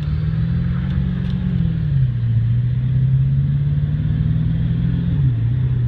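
Ford F250 pickup accelerating, heard inside its sound-damped cab: a steady low engine drone that drops in pitch twice, about two seconds in and again about five seconds in, as the truck shifts up through the gears.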